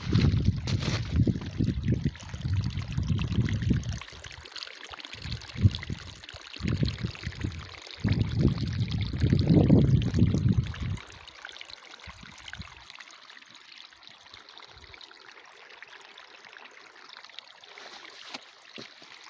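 A stream's water rushing steadily. For the first ten seconds or so, irregular low rumbling buffets lie over it and are the loudest sound.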